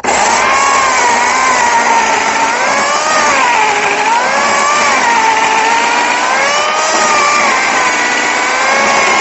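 Chainsaw cutting through oak logs, running loudly and steadily. Its pitch drops as the chain bites into the wood and rises again as it frees up, several times over.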